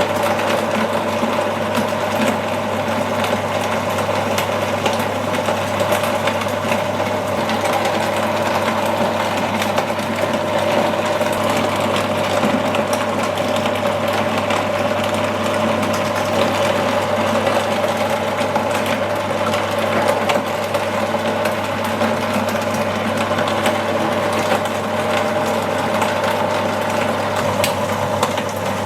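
Electric meat grinder grinding chicken: its motor hums steadily at one even pitch, with scattered small clicks and cracks from the auger and cutter working the meat.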